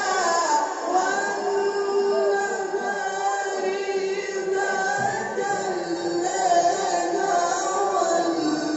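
A male qari reciting the Quran in the melodic tilawah style, drawing out long held notes with wavering ornaments.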